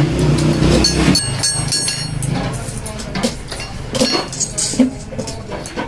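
Metalworking in a small tea kettle workshop: a machine hums steadily while metal parts clink, ring and knock.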